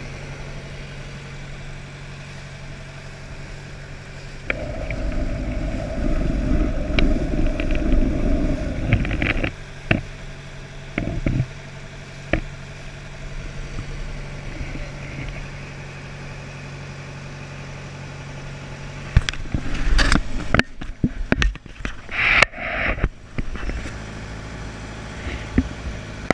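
An engine running steadily with a low hum. It gets louder and rougher for a few seconds early in the middle, and there is a run of sharp knocks and bumps near the end.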